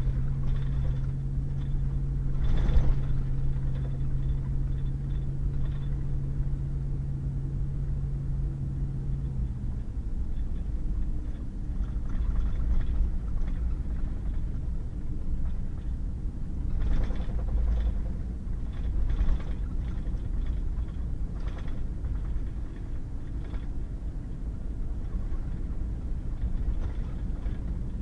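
Pickup truck driving on a wet, muddy gravel road: a steady low rumble of engine and tyres. A steady engine drone fades out about a third of the way in, and there are occasional short knocks from bumps in the road.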